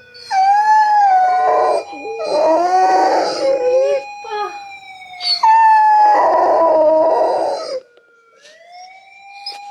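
Golden retriever howling in long, sad, pitch-bending notes, a little hoarse, along with a recording of a Japanese police car siren played to it. The siren's slow wail runs underneath throughout; the dog howls in three long stretches, stops about eight seconds in, and the siren wail then rises again.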